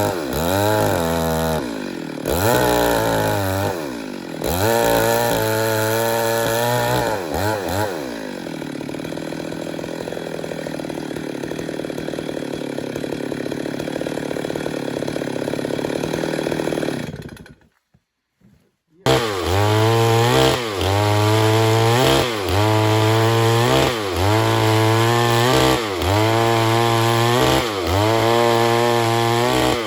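Stihl MS 382 two-stroke chainsaw revving up and down repeatedly, then running steadily for about nine seconds. The sound cuts out abruptly for about a second and a half past the middle, then resumes with rises and dips in engine pitch about once a second.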